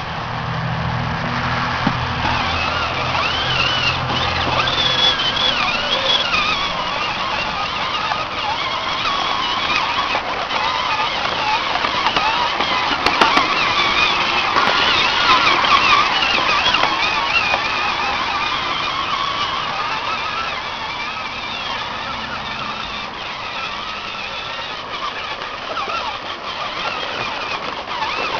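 A child's John Deere ride-on toy tractor driving, its electric motor and gears whining steadily with a pitch that wavers as it moves. A low hum underneath fades out about five seconds in.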